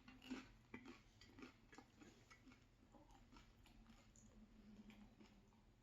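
Faint, quiet chewing of a mouthful of food: soft, irregular mouth clicks and ticks, a few slightly louder ones in the first second and a half.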